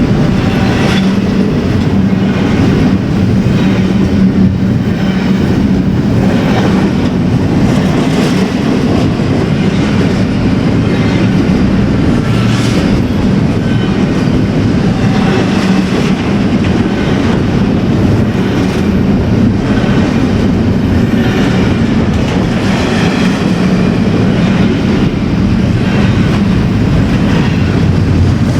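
Freight train cars rolling past at close range in a steady, continuous rumble, with the wheels clicking over rail joints again and again.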